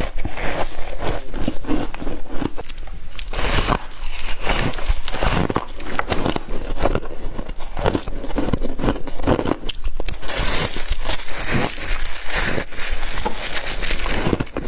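Close-miked biting and chewing of humidifier frost: a dense, uneven run of crackling crunches.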